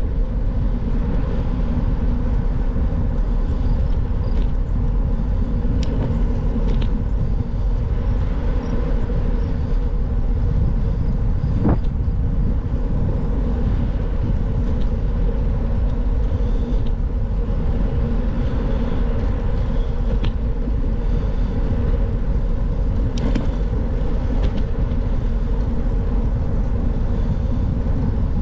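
Steady wind rumble on the microphone and rolling tyre noise from a moving bicycle, with a few brief clicks.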